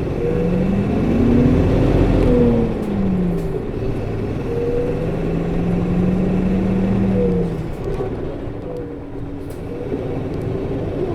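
A Nissan Diesel Space Runner RA city bus (PKG-RA274KAN) engine is pulling the bus along. The revs climb, fall back about two and a half seconds in, hold steady, then ease off near eight seconds. Its viscous coupling fan runs throughout and sounds unusually high for the engine speed, a quirk of this bus.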